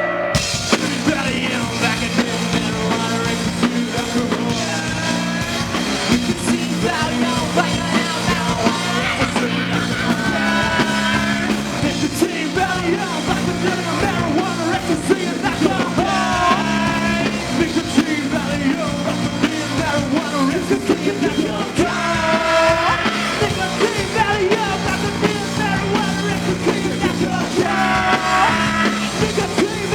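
Live rock band playing a song, with a singer's voice over drums and guitars.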